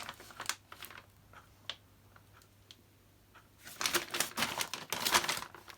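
Packaging rustling and crinkling as car parts are unwrapped and handled, with a few small clicks in a quieter stretch in the middle before the rustling starts up again, louder.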